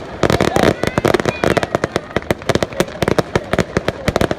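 Fireworks display going off: many sharp pops and bangs in quick succession, several a second.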